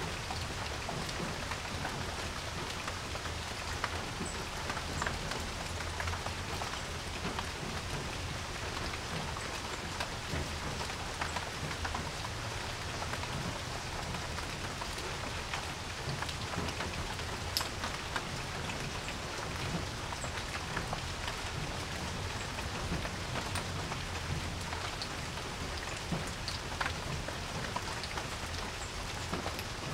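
Steady rain falling on a porch, an even hiss with individual drops ticking sharply here and there, over a low steady rumble.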